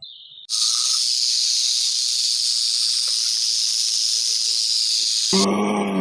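An animal hissing in one long, steady, high-pitched hiss for about five seconds that stops abruptly. A low, drawn-out grunting call from another animal starts near the end.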